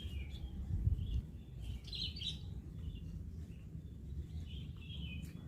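Small birds chirping off and on in short bursts, busiest about two seconds in, over a steady low rumble of outdoor background noise, with a brief louder low rumble about a second in.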